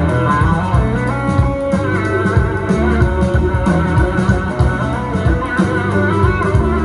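Live blues-rock band music: an electric guitar plays a gliding lead line over bass, drums and organ.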